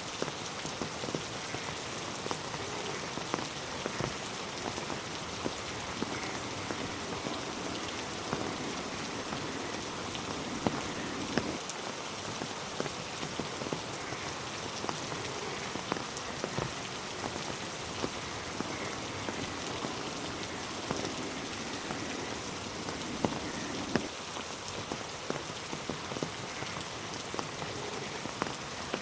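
Steady rain falling, with a constant hiss and many close drops ticking sharply on hard surfaces and leaves.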